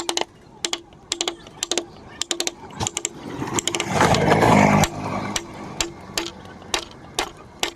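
Hand woodcarving: a mallet tapping a carving chisel into wood, sharp knocks about two a second, each with a short ringing tone. About four seconds in, a louder rough humming noise lasts for about a second over the tapping.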